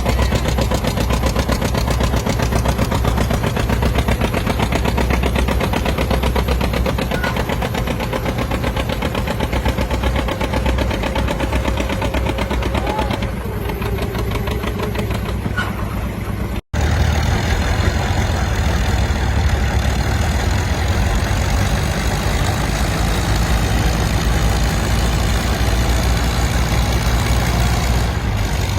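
Antique farm tractor engine running with a rapid, even firing beat. It breaks off for an instant about two-thirds of the way through, then carries on.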